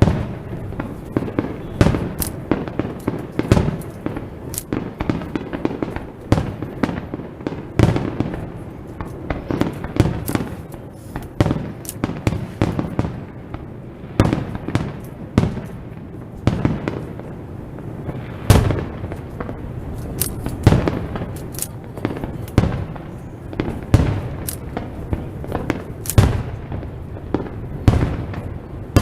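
Fireworks display: aerial shells bursting one after another, sharp booms roughly every second over a continuous low rumble.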